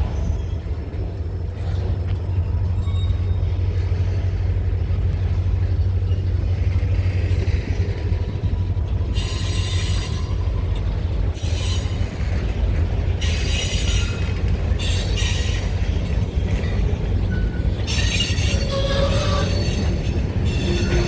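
Missouri & Northern Arkansas freight train rolling past with a steady low rumble. From about halfway through, spells of high-pitched wheel squeal come and go several times.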